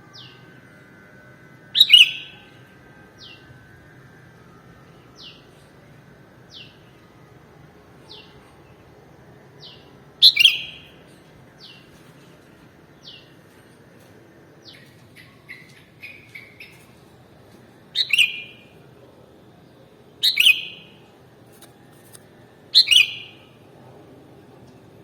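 Sooty-headed bulbul calling: five loud, sharp, short calls spaced a few seconds apart, with a brief cluster of softer chattering notes in the middle and faint short falling notes repeating about once a second throughout.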